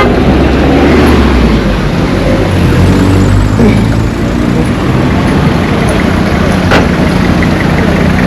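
A motor vehicle's engine running, heard close up with road and wind noise, its pitch shifting a little in the first few seconds. A single sharp click comes about two-thirds of the way through.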